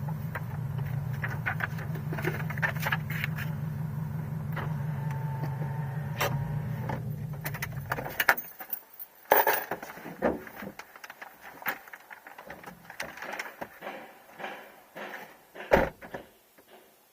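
Scion FR-S's flat-four engine running steadily, then switched off about eight seconds in. After that come scattered clicks and knocks, the loudest about a second after shutoff and another near the end.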